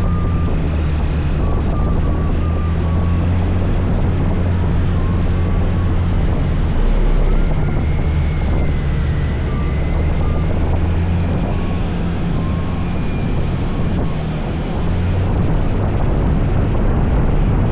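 Scooter engine running steadily while riding, under wind and road noise, with faint whining tones above.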